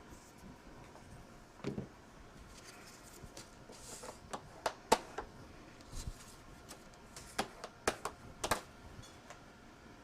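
Scattered light clicks and taps, about a dozen, from paper and craft tools being handled on a work table.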